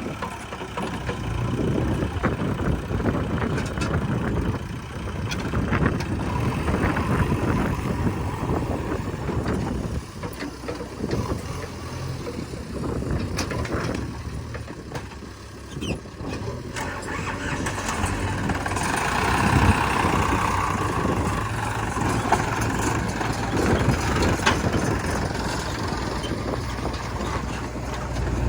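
Heavy diesel engine machinery running, its level rising and falling as it works, with scattered short knocks.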